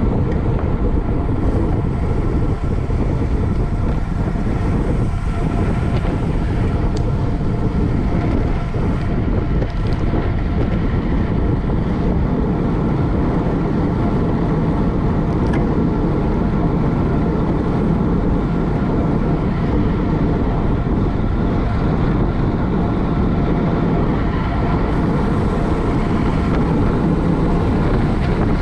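Steady rush of wind over the microphone, mixed with road and drivetrain noise from a racing bicycle riding at speed.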